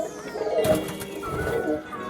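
Domestic pigeons cooing in a loft, with light background music.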